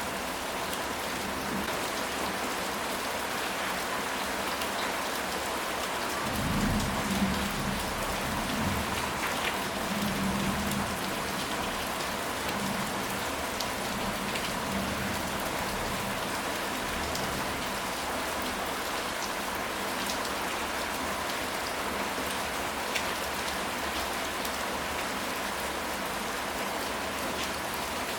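Steady rain falling in a dense, even hiss. About six seconds in, a low rumble of thunder swells and fades over several seconds.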